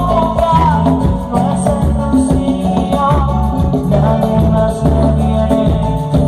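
A Latin band playing dance music: a bass line moving note to note under a wavering melody, with light shaken percussion.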